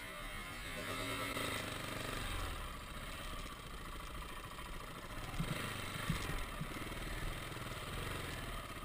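Dirt bike engine running at low revs as the bike rolls slowly along, a little louder from about one to two and a half seconds in.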